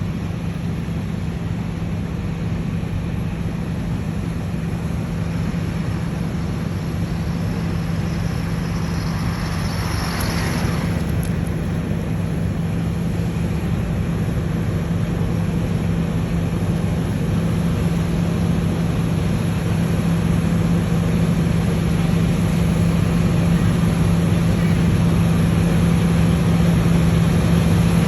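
Claas Lexion 770 combine harvester running steadily with a deep drone and a constant hum, growing gradually louder. A brief rush of noise comes about ten seconds in.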